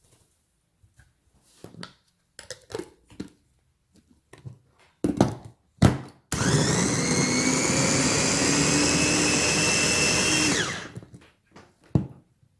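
Small electric food processor running for about four seconds as it chops fresh vegetables, then winding down. Before it starts there are several clicks and knocks.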